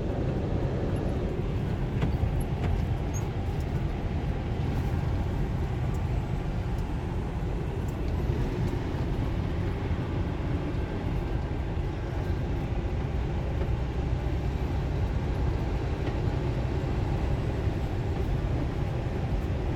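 Semi truck cruising on the highway, heard from inside the cab: a steady low engine drone and tyre and road noise.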